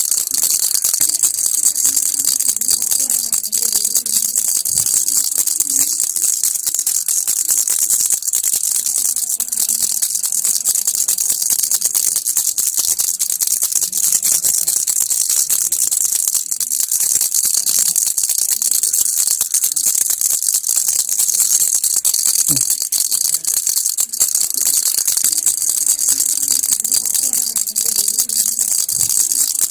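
Baby rattle shaken without pause: a fast, steady, hissing rattle with no breaks.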